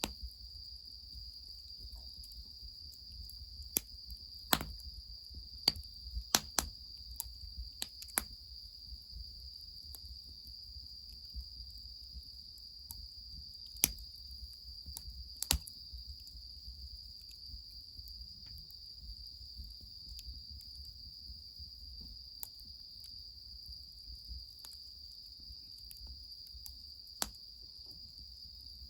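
Wood fire crackling with scattered sharp pops and snaps, a cluster of them early and single ones later, over a steady high-pitched insect chorus.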